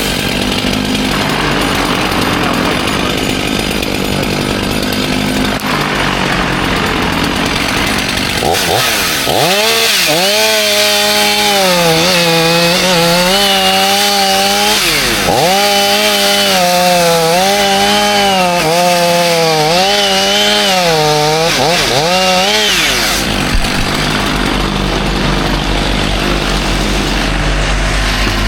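Chainsaw running and cutting wood, its engine pitch repeatedly dipping under load and rising again. Near the end it gives way to a lower, steady engine drone.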